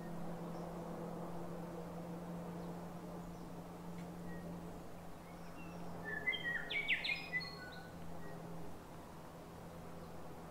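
A small songbird gives a short burst of chirps and quick whistled notes about six seconds in, against other faint bird calls and a steady low background hum.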